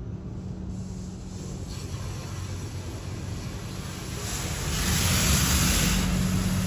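PDQ Tandem SurfLine car wash machine spraying water onto a car, a steady hiss of spray over a constant pump hum; the spray grows louder about four seconds in.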